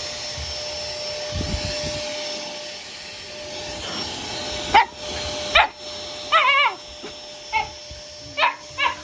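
A Dyson vacuum cleaner runs steadily while a mame shiba puppy gives a run of short, sharp barks in the second half, about six of them, one drawn out into a wavering yelp.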